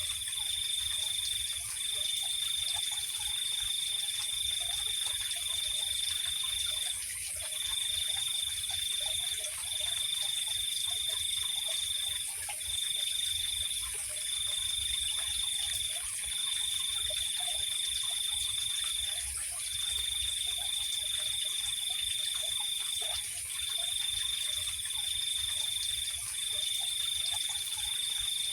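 Night insects trilling. One steady, high trill runs in long stretches of one to five seconds with short breaks between them, over a constant, higher-pitched insect hiss. Faint frog calls are scattered underneath.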